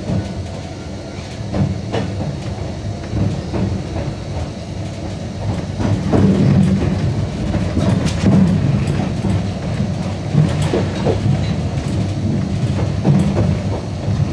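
Yokkaichi Asunarou Railway narrow-gauge (762 mm) train running on the track: a steady low rumble with scattered wheel clicks over the rails, growing louder about six seconds in.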